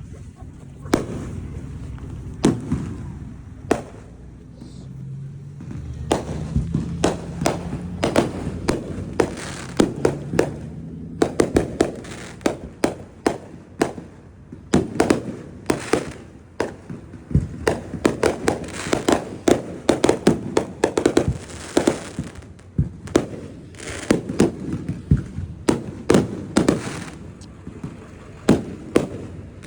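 Fireworks going off: many sharp bangs and crackles, a few spaced apart at first, then in fast, dense clusters from about ten seconds in until near the end.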